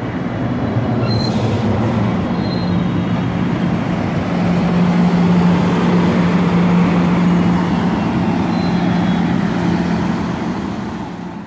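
Amtrak passenger train at the platform, running with a loud steady rumble and a low hum that grows stronger about four seconds in.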